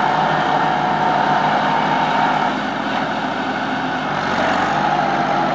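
Tractor engine running steadily, a little quieter from about halfway through.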